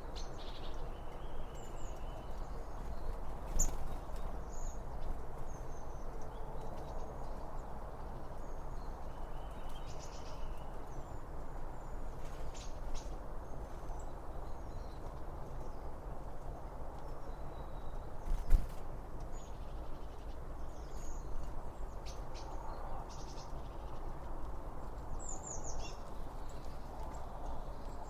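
Songbirds chirping in short, scattered calls over a steady low rushing background, with one sharp knock about two-thirds of the way through.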